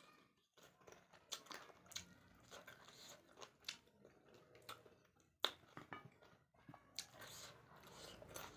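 Close-up chewing of chicken and rice: soft, irregular crunches and wet mouth clicks, with one sharper click about five and a half seconds in.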